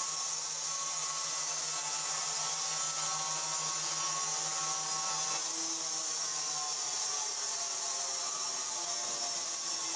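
A machine running steadily with a whir, over a low hum that fades out about seven seconds in.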